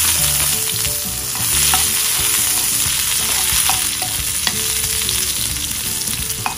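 Sliced shallots sizzling in hot oil with mustard seeds in a pan during tempering. The frying hiss is loudest at first and eases off, with a few sharp ticks. A steel spoon stirs them near the end.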